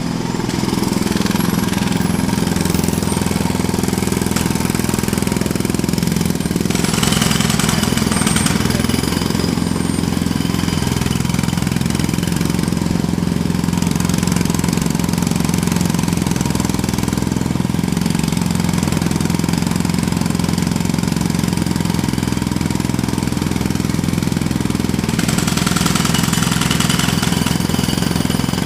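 Jackhammer hammering continuously over a steady engine drone. The hammering gets brighter and harsher in stretches, most clearly about seven seconds in and again near the end.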